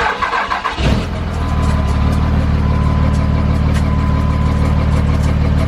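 Cummins turbo-diesel engine in a Dodge truck running steadily at idle, its sound coming in about a second in. It is being run to see whether a broken-off drill bit piece in the exhaust has passed through the turbo.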